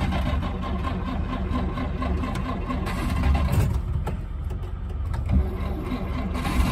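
Vintage Plymouth car engine cranking on the starter and sputtering, almost catching but not starting. The owner puts the hard start down to dampness after the car sat overnight under a tarp.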